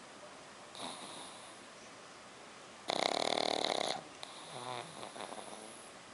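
Black pug puppy snoring loudly: one loud snore about three seconds in, lasting about a second, followed by a quieter, uneven breath, with a softer breath about a second in.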